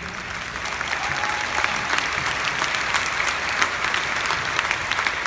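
Audience applauding: a dense patter of many hands clapping that swells about a second in and holds steady.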